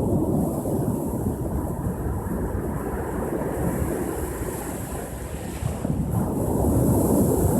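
Ocean surf washing onto the shore, easing a little in the middle and building again with a new wave about six seconds in, with wind rumbling on the microphone.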